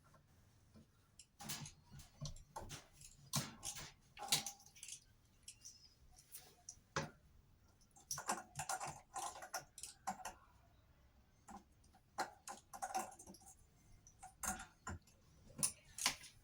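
Irregular light clicks and knocks of hand tools and metal parts, some in quick little clusters, as screws on a washing machine are tightened.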